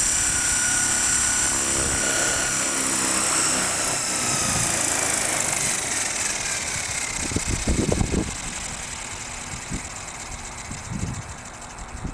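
Large RC coaxial helicopter's electric drive and rotors winding down: a steady whine that slides lower in pitch and fades over about seven seconds as the rotor head loses speed. Low rumbling thumps follow about eight seconds in.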